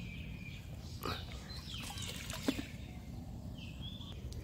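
Birds chirping several times in short calls over a steady low rumble, with a couple of soft knocks.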